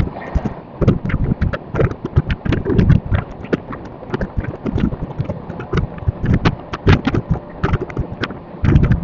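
Passenger train's wheels clattering over rail joints and points: a rapid, irregular run of loud knocks.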